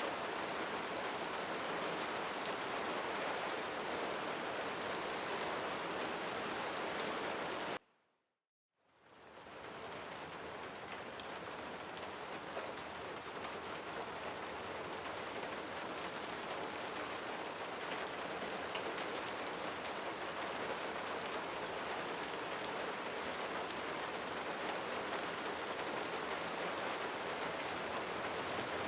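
Steady rain falling on leaves, with faint individual drop ticks. About eight seconds in it cuts out abruptly for roughly a second of silence, then fades back in and continues steadily.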